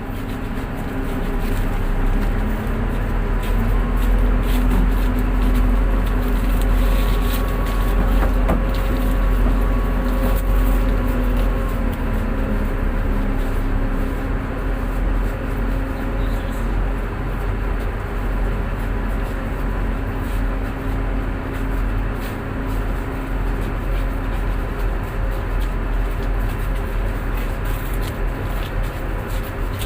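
Tugboat's diesel engine running with a steady deep rumble. A fainter higher whine comes in about two seconds in and fades out around twelve seconds.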